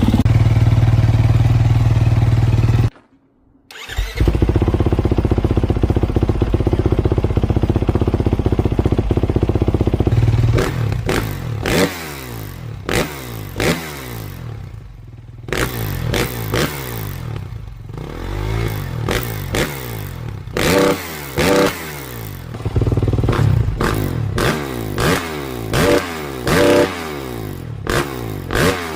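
Kawasaki KX450 motocross bike's single-cylinder four-stroke engine through an FMF exhaust. It runs steadily, cuts off abruptly for about a second around three seconds in, then runs steadily again. From about ten seconds in it revs up and down over and over in rising sweeps, with quick throttle blips near the end.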